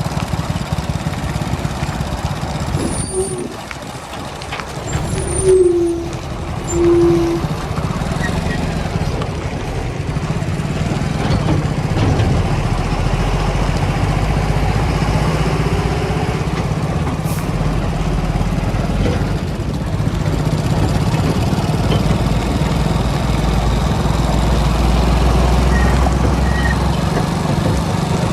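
Heavy earth-moving diesel engine running steadily, with two short, loud tones a few seconds in.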